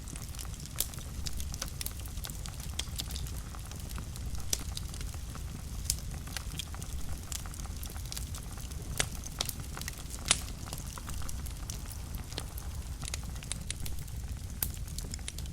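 Wood fire burning in a fireplace, with a steady low rumble of the flames under irregular crackles and sharp pops, a few louder snaps standing out.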